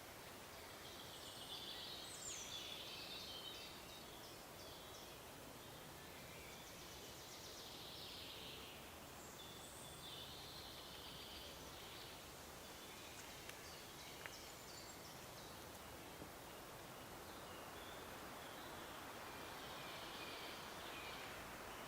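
Faint forest ambience at a pond: songbirds singing on and off over a steady low hiss, with a few faint ticks about halfway through.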